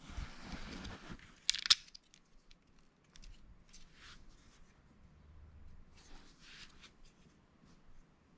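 Small plastic Lego pieces being handled: a rustle of rummaging for about a second, then a couple of sharp plastic clicks as bricks are pressed together, followed by scattered light clicks and taps.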